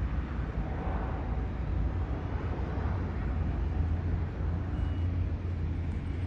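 Airbus A321neo jet engines heard as a steady low rumble as the airliner climbs away after takeoff.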